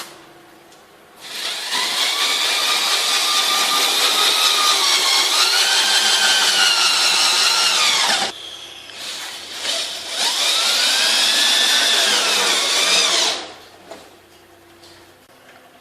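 Electric power tool running in two long bursts, its motor whine dipping and recovering in pitch as it is loaded, then stopping.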